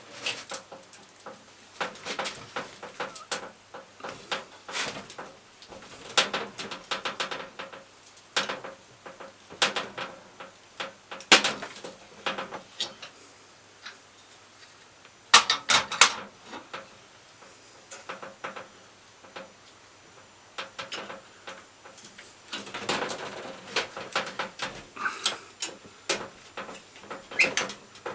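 Irregular knocks, clicks and clatter of hard objects, coming in scattered clusters with short pauses between.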